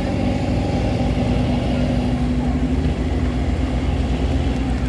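Tugboat's diesel engine running steadily under tow, a heavy low hum with a fast, even pulse.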